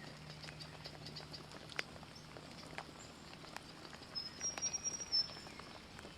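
Light rain falling, with individual drops ticking irregularly close by. A brief thin high-pitched call comes about two-thirds of the way through.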